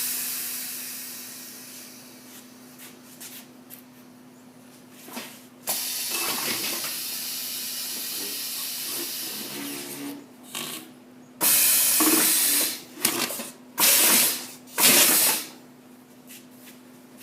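Truck tire sidewall remover running with a steady hum, overlaid by hissing: one long stretch in the middle, then three short bursts near the end.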